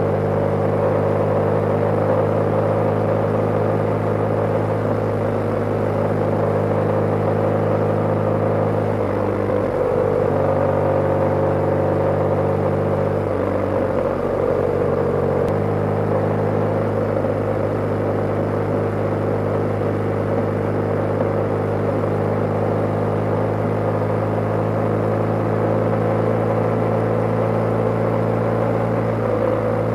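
BMW motorcycle engine running under way at a steady pace, its note shifting and dropping briefly around ten seconds in and again around fourteen seconds in, then holding steady.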